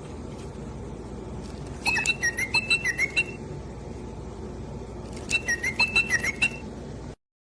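Electronic chirping and whistling from a Little Live Pets My Really Real Bird toy: two short bursts of quick whistled notes, each about a second long, over a steady hiss. The sound cuts off abruptly near the end.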